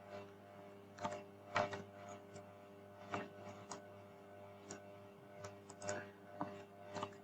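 Scattered computer keyboard keystrokes and mouse clicks, about ten irregular taps, over a steady low hum.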